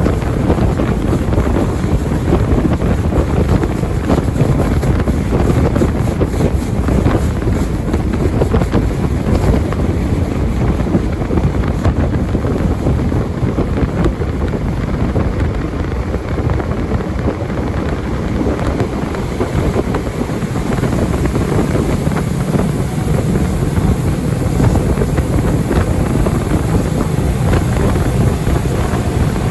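Jet boat underway on a river: engine and water-jet drive running steadily under the rush of water, with heavy wind noise on the microphone.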